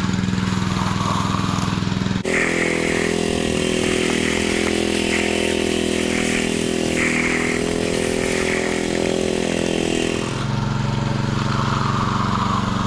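Small petrol engine of a concrete power trowel ('helicopter') running steadily while working the slab. The engine note changes sharply about two seconds in, brighter and hissier with a higher hum, then drops back to the lower hum about ten seconds in.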